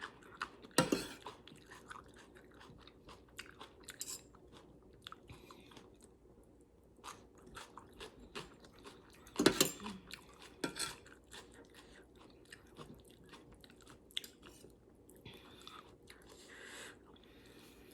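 A person chewing and crunching mouthfuls of spicy chicken-feet salad close to the microphone, with many short crunching clicks; the loudest crunches come about a second in and again around the middle.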